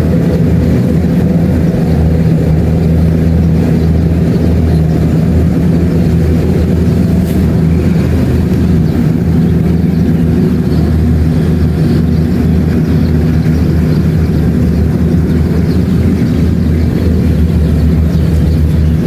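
Kubota DC-70 Plus combine harvester running steadily, its diesel engine giving an even, unbroken hum with no change in speed.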